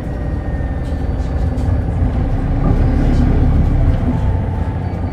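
Running sound of a 2SG-HL2ANBP hybrid city bus heard from inside the cabin: a steady low engine and road rumble that grows louder around the middle as the bus pulls along, with a faint whine above it.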